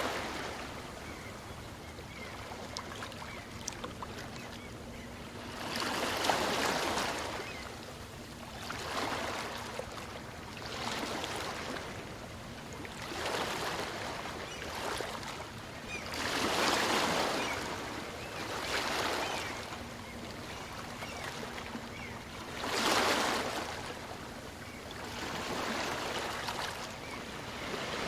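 Small waves of a calm sea washing onto a beach and drawing back, the surf swelling and easing every few seconds, with bigger washes about a quarter, three-fifths and four-fifths of the way through.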